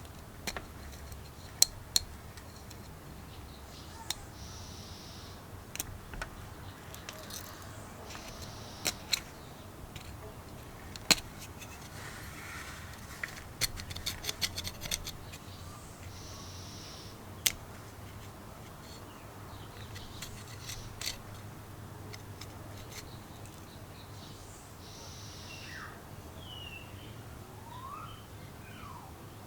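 Small metal parts and tools clicking and clinking as they are handled, in scattered sharp ticks, with a short hiss heard four times.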